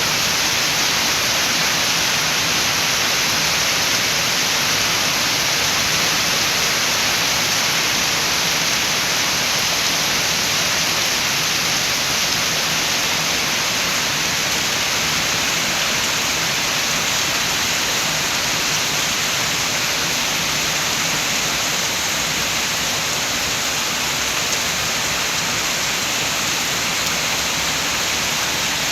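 Steady heavy rain falling as an even hiss, with no single drops or gusts standing out.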